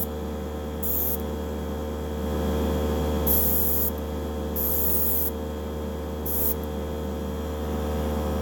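Airbrush spraying paint in four short hisses of uneven length, its needle opened up to lay a wet coat, over a steady low hum.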